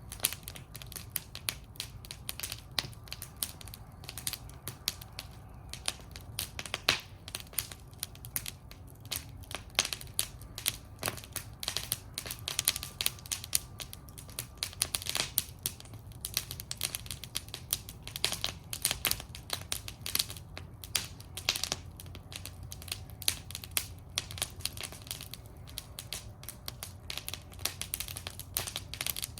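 Wood fire burning in a fire bowl, crackling and popping irregularly over a steady low rumble of flames.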